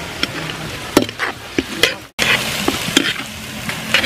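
Chicken pieces sautéing with onion and ginger in a wok, sizzling while a spatula stirs them, with several sharp scrapes and clinks of the spatula against the pan. The sound cuts out briefly about halfway.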